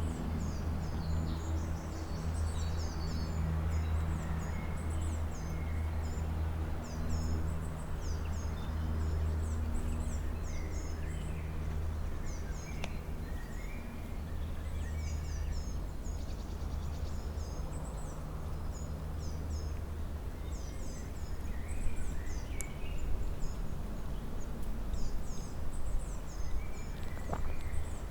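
Several small songbirds chirping and singing in quick, high repeated phrases, with a few lower calls mixed in. Under them runs a steady low hum that fades after about twenty seconds.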